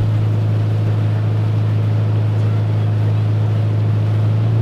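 Motorboat engine running at a steady speed, a constant low drone that does not change.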